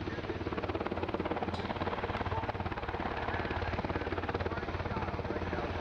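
Military search-and-rescue helicopter in flight, its rotor blades chopping steadily and rapidly over the engine noise.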